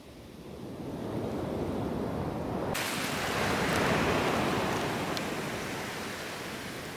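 Ocean surf: a wave swells, breaks with a sudden hiss a little under three seconds in, then washes up and slowly fades.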